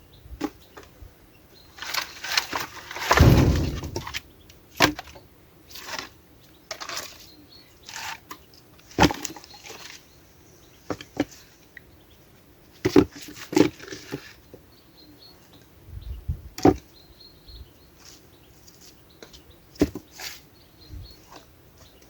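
Dry sticks and twigs snapped and wood handled for a bonfire: irregular sharp cracks and knocks, the loudest about three seconds in, with a rustle near the middle. Faint bird chirps sound in the background.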